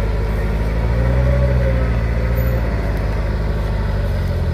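Heavy diesel engine running steadily, swelling briefly under load about a second in before settling back.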